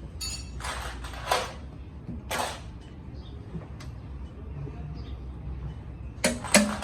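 Short scrapes and clinks of metal engine parts and hand tools being handled over a low steady hum, a few separate strokes early on and a quick cluster near the end.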